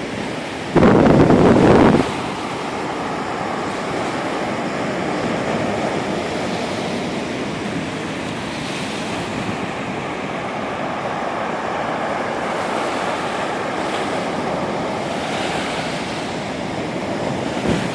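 Ocean surf on Sagami Bay after a typhoon: a steady wash of breaking waves, with wind on the microphone. About a second in, a loud rumble hits the microphone for roughly a second, then cuts off abruptly.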